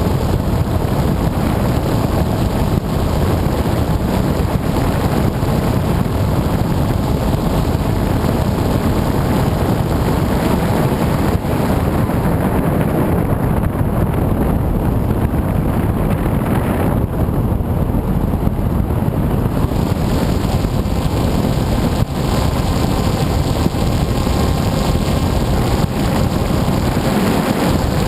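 Onboard sound of an FPV model aircraft in flight: its motor running steadily under a loud rush of wind over the camera's microphone. The hiss dulls for a few seconds midway.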